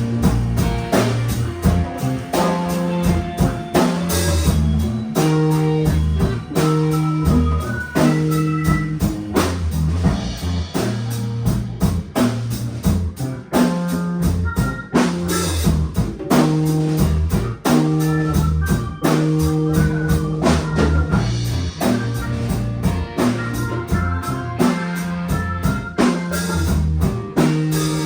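A small band playing an instrumental passage: guitar over a repeating bass line and a drum kit keeping a steady beat.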